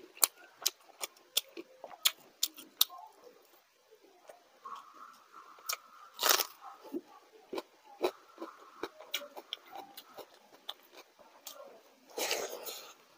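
Close-up eating sounds of one person: rapid sharp crunches of fried food being chewed in the first few seconds, a single loud crunchy bite into a raw onion about six seconds in, then softer chewing, and a dense wet burst near the end as a handful of water rice (panta bhat) goes into the mouth.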